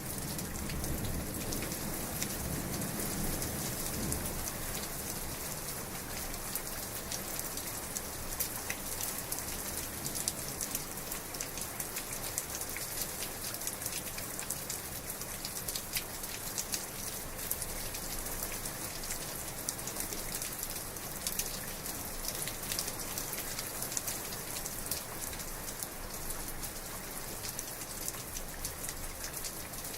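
Heavy rain falling steadily on a surface, a dense patter of drops with many sharp little ticks, and no thunder.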